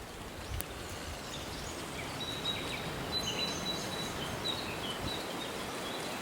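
Small birds chirping and calling, including one thin high whistle held for about two seconds near the middle, over the steady rush of a river.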